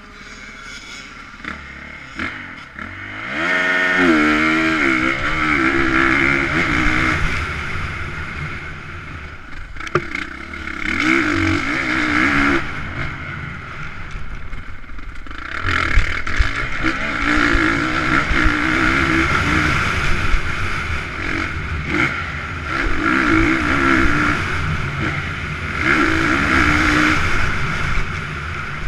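Motocross motorcycles racing, engines revving up and down through the gears. A sharp rising rev comes about three seconds in, then the engine sound swells and fades several times.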